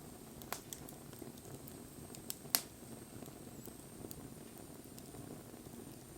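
Wood bonfire burning with a steady low rush of flame and a few sharp crackles from the burning wood, the loudest pop about two and a half seconds in.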